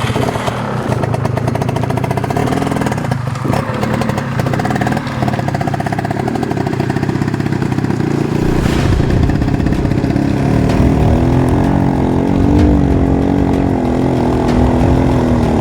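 Dirt bike engine running under throttle through a sand-bottom river crossing. Its note grows heavier about halfway through, then holds steady.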